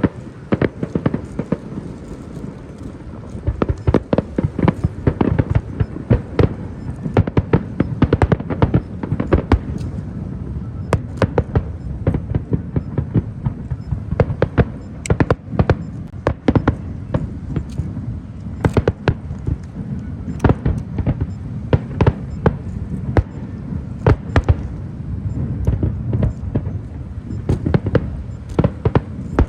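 Fireworks display: a dense run of sharp bangs, often several a second, over a steady low rumble of further bursts.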